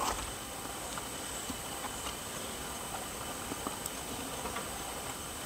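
Faint steady outdoor background of insects: a continuous high thin drone over a low hiss, with a few faint small clicks.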